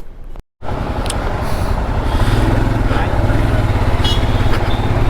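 Royal Enfield Himalayan motorcycle's single-cylinder engine running steadily while riding, picking up and getting louder about two seconds in. Just before it, a brief moment of silence.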